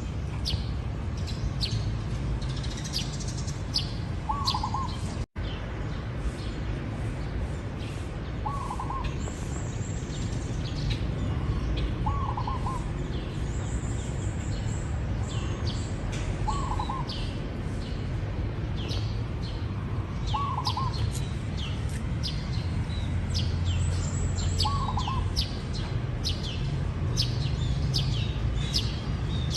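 Zebra dove cooing: a short trilled coo phrase repeated about every four seconds, among frequent quick high chirps from other small birds. The sound cuts out for a split second about five seconds in.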